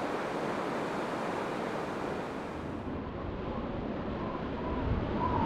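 Gale-force wind rushing and buffeting the microphone in a steady, dense noise. Faint held tones join in near the end.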